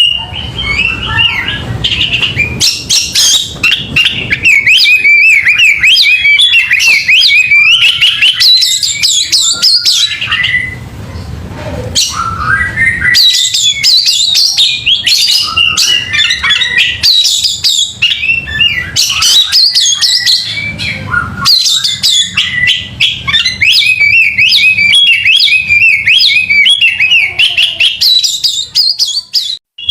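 Oriental magpie-robin (kacer) singing a loud, fast, almost unbroken stream of varied whistles and chattering phrases over a low rumble, with a brief lull about eleven seconds in.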